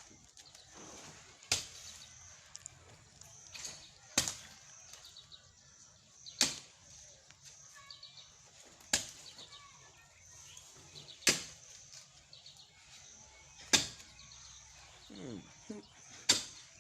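A hand digging tool striking hard, rocky ground, seven heavy blows at an even pace of one about every two and a half seconds.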